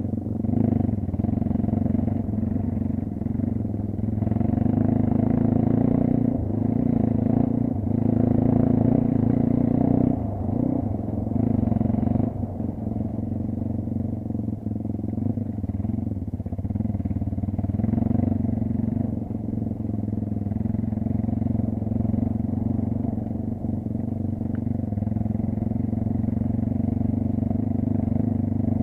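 Kayo off-road motorcycle engine running continuously while riding. The revs swell and ease with the throttle, with brief drops about ten and twelve seconds in, then settle to a steadier pitch.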